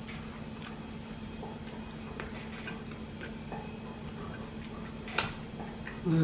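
Quiet chewing with soft mouth clicks while eating a crunchy Dorito-shell taco, one sharp crunch about five seconds in, and a short falling "mmm" at the end.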